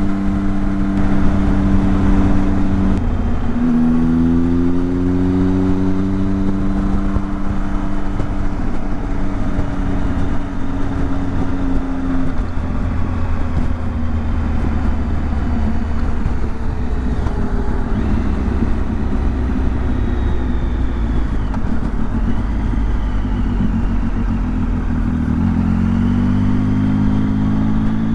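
Motorcycle engine running at road speed, with a gear change about three seconds in. The engine note then climbs, eases off and falls after about twelve seconds, and climbs again near the end, with a steady rush of wind and road noise underneath.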